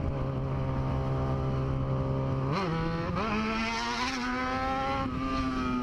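Motorcycle engine idling steadily, with a short throttle blip about two and a half seconds in, then the revs step up and climb slowly as it rides off, easing back slightly near the end.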